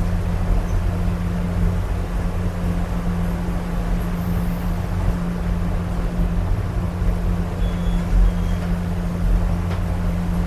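Railroad passenger coach in motion, heard from its open vestibule: a steady low rumble and drone from the running gear on the rails, with an even rushing noise over it.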